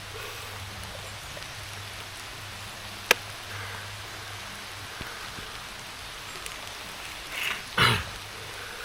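Steady hiss of heavy rain. A sharp click about three seconds in, and two louder noises near the end, the second sweeping down in pitch.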